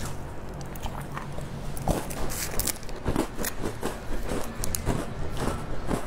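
Crisp biscuits being bitten and chewed close to the microphone: a run of irregular dry crunches and crackles.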